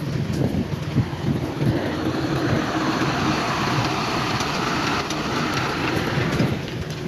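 Heavy diesel earthmoving machinery running steadily, a low rumble with scattered rattles and knocks.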